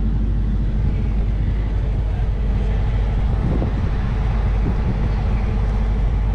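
Claas Lexion 8700 combine harvester's 12.4-litre six-cylinder diesel engine running steadily.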